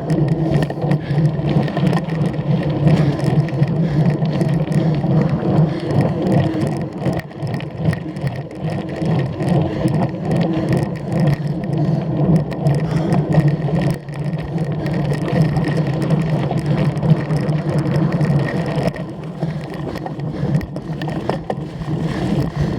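A cyclocross bicycle being ridden hard over rough ground: the chain and frame rattle with many small knocks over a steady rolling and rushing noise.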